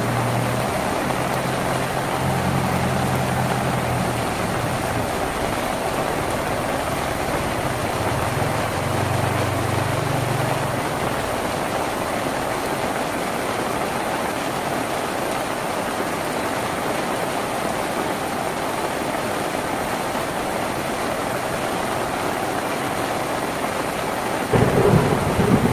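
Steady rain drumming on a tin roof. A low rumble runs under it through the first ten seconds or so, and a louder low rumble breaks in near the end.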